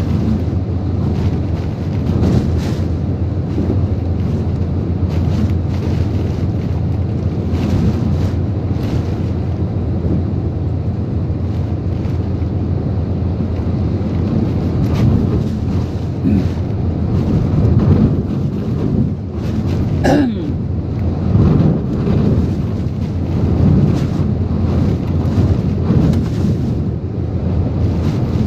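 Typhoon-force wind blowing hard around the truck, a dense, continuous rush with frequent gusts and heavy wind noise on the microphone. About two-thirds of the way through, a brief whistle slides quickly down in pitch.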